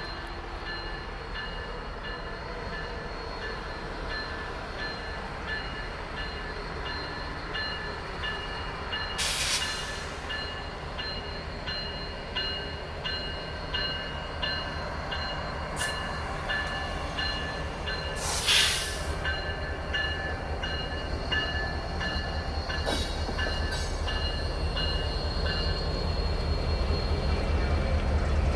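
Norfolk Southern freight train approaching, its low rumble building toward the end. A high ringing tone pulses about twice a second, and two short hissing bursts come midway.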